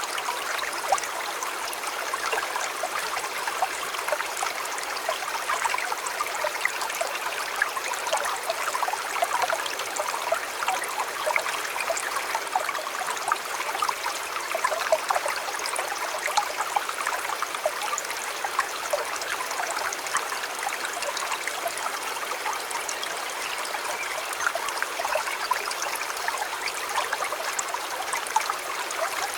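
River water flowing steadily, a close trickling and babbling with many small splashes.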